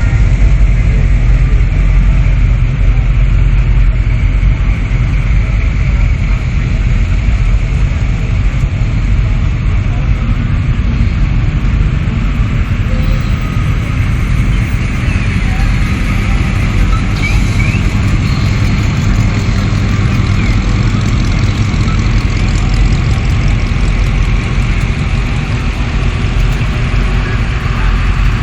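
Steady low rumble of cars' engines running as the parade cars roll past, with voices in the background.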